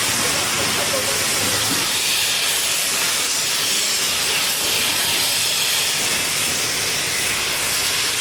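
Narrow-gauge steam locomotive letting off a loud, steady hiss of steam.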